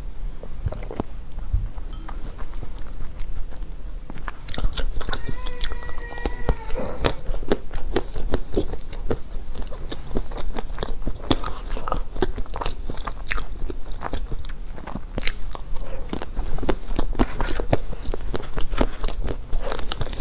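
Close-miked crunching bites and chewing of a crispy-skinned half-baked cheesecake, full of sharp crackles. A brief hum sounds about five seconds in.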